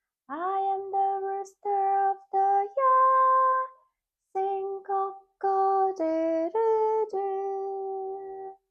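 A woman singing a gentle tune alone, with no instruments. It comes in two phrases of held notes, the first sliding up into its opening note and ending on a long higher note, with a short break after it.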